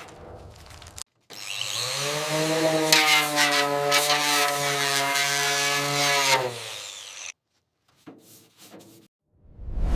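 Handheld electric power tool running for about six seconds: a steady motor whine that rises slightly as it spins up, with harsh hiss from the tool working against a surface. It cuts off suddenly. Faint rubbing comes before it and a few faint scrapes after.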